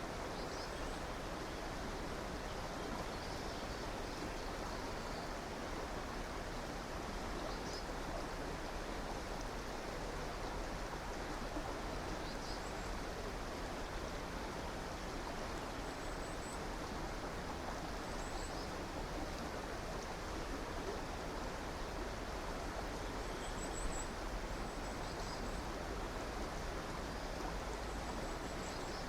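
Flowing river water, a steady rushing, with faint high-pitched bird chirps now and then.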